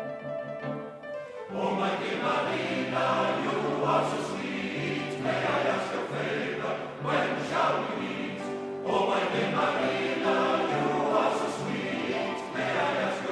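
Recorded music: a group of voices singing a Welsh folk song in harmony. The voices come in about a second and a half in, after a short keyboard passage.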